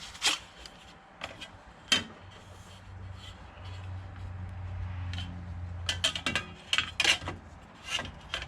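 Metal parts clinking and knocking against each other on a workbench, a few sharp knocks early and a quick cluster near the end, with a low hum in between.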